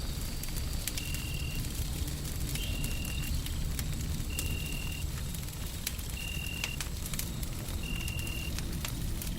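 Wood fire crackling with scattered sharp pops over a steady low rumble of white noise. A short high tone repeats five times at even spacing, about every second and a half to two seconds.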